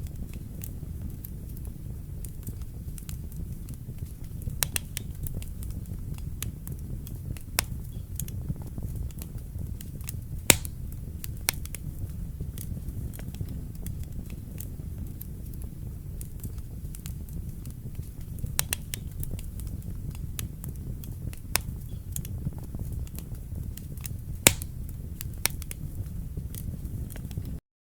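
Wood fire burning in a fireplace: a steady low rumble of flames with scattered sharp crackles and pops, two of them louder, about ten seconds in and near the end. The sound cuts off suddenly just before the end.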